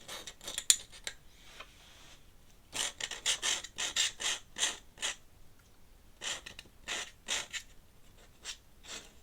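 Metal dip-pen nib scratching across paper in runs of short, quick strokes, with pauses between the runs.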